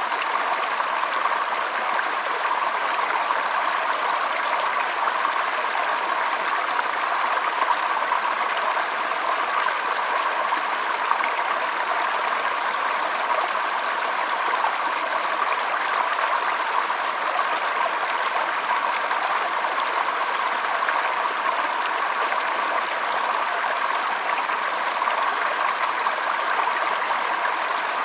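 Running water, as of a stream, flowing steadily with an even level.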